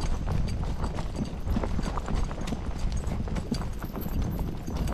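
Hoofbeats of ridden horses moving at a brisk pace: a quick, uneven run of hoof strikes.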